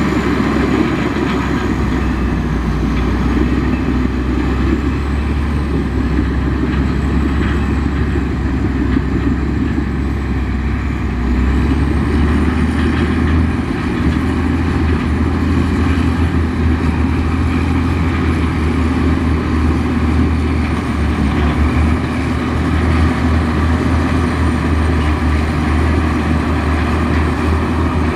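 Heavy diesel engine of earthmoving machinery running steadily, a deep low drone with a faint high whine that wavers in pitch above it.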